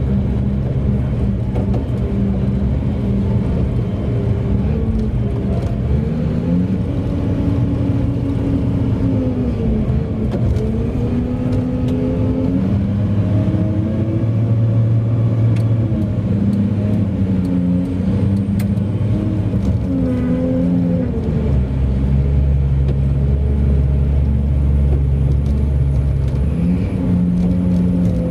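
Large mining haul truck's diesel engine running under load, its pitch rising and falling several times as it revs up and eases off. Over the last third it settles into a deeper, steadier tone.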